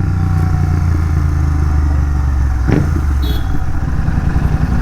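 Royal Enfield Continental GT 650's parallel-twin engine running under way through an aftermarket megaphone exhaust, heard from the rider's helmet. The steady note holds for the first half; about halfway through there is a short sharp click, and the note drops and turns rougher and more uneven.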